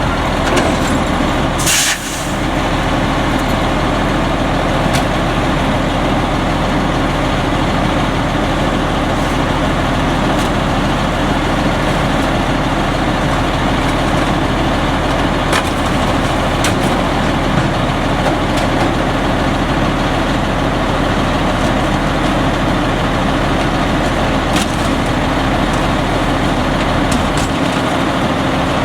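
Autocar front-load garbage truck's diesel engine running steadily, with a short air-brake hiss about two seconds in.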